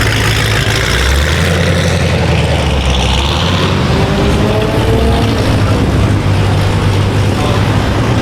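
Vehicle engines idling close by, a steady low drone. A deeper engine note joins about a second in and drops away past halfway, and a faint rising whine comes in around the middle.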